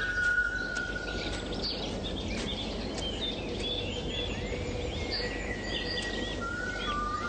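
Birds chirping and twittering, many short high chirps, with long held whistle-like tones running through them over a steady background hiss.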